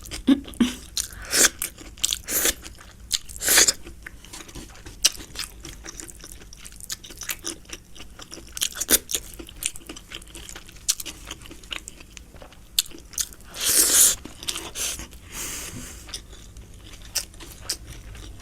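Close-miked chewing: a person biting into and chewing fried mushrooms, with irregular wet clicks and crunches. A louder rushing noise comes once, about fourteen seconds in.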